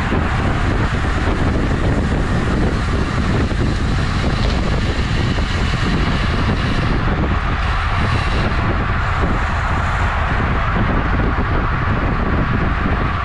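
Steady rush of wind and road noise on a camera microphone carried along on a moving road bicycle, heavy in the low rumble.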